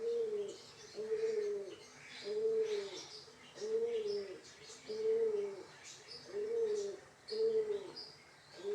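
Pigeon cooing, a low arched note repeated about once a second, with faint high chirps of small birds above it.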